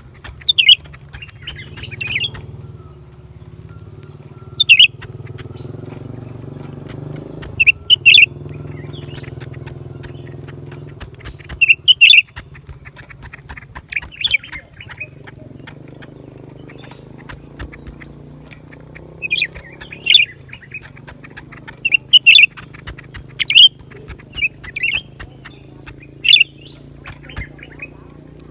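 Blue-winged leafbird giving short, sharp calls, often in pairs or small clusters, every second or two. A steady low hum runs underneath.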